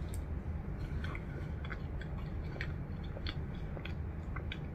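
A person chewing a big mouthful of soft hamburger, with many small wet clicks and smacks of the mouth. A steady low hum runs underneath.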